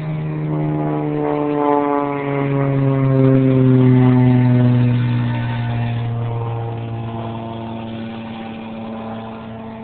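Small nitro engine of an R/C monster truck running. Its pitch falls gradually over a few seconds and then holds steady, and it is loudest near the middle. The owner says the engine is tuned so the truck won't go too fast.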